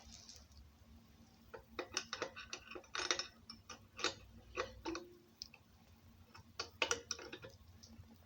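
Irregular light clicks and taps, in small clusters, as the pressure gauge's threaded fitting is worked onto the air compressor by hand.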